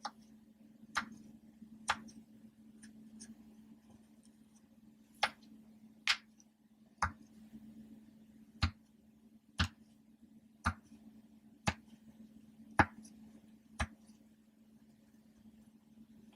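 Ocean-animal popper toys being popped one at a time: about a dozen sharp single pops, roughly one a second, with a pause of about three seconds after the third. A steady low hum runs underneath.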